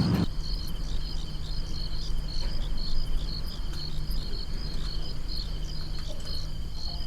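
Crickets chirping: a regular high chirp several times a second with a faster trill just beneath it, over a steady low hum.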